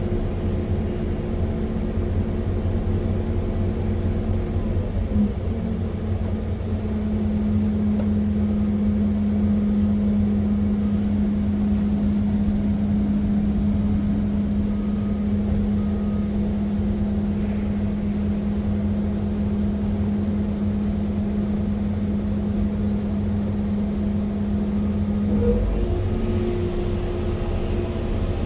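Heavy diesel machinery running steadily: a large excavator working at a rock-loading site, giving a continuous low rumble with a steady engine hum. The hum's pitch drops lower about six seconds in and rises again near the end.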